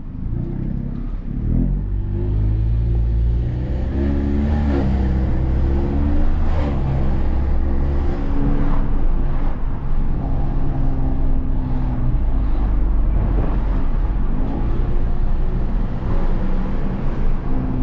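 Tuned 400 bhp Volkswagen Golf R's turbocharged 2.0-litre four-cylinder engine under way, its note rising in pitch twice in the first five seconds and then holding steady, with road and tyre noise.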